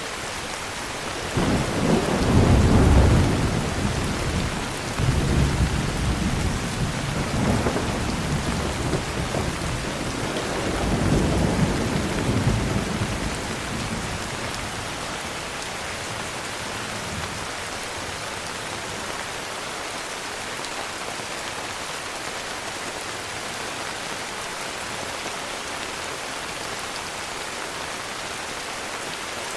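Heavy rain falling steadily with a long rumble of thunder that starts about a second and a half in, swells several times and dies away after about twelve seconds, leaving the even hiss of rain.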